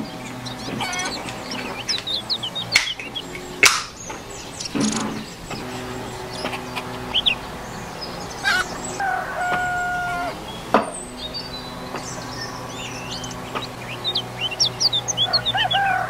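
A rooster crowing twice, about nine seconds in and again near the end, over small birds chirping. A few sharp clicks come in between.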